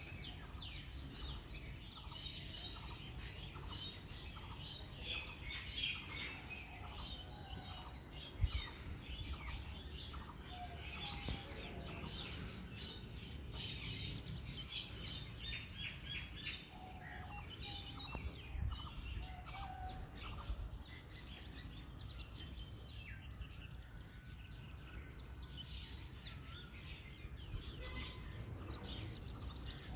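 Small birds chirping and calling over and over, many short high chirps, over a low steady background rumble. A single thump about eight seconds in.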